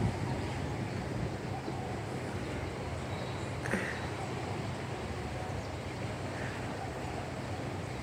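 A boat's engine running steadily under way, mixed with wind and water noise, with one brief click about midway.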